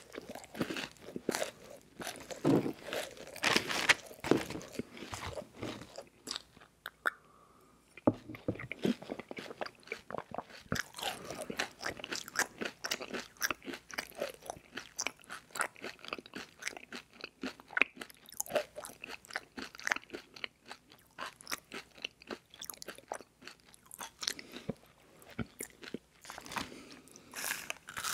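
Close-miked chewing of a crispy rice marshmallow treat studded with M&M's, a dense crunchy crackle with a brief lull a few seconds in. Near the end a fresh crunchy bite into a Lucky Charms marshmallow cereal treat.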